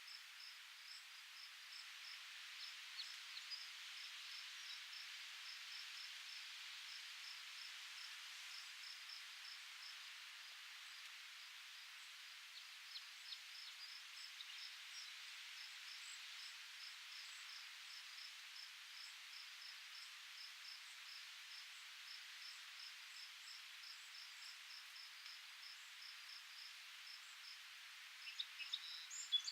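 Faint outdoor ambience: an insect, cricket-like, chirping steadily in short high pulses several times a second over a soft, even hiss of breeze. A few sharper chirps come near the end.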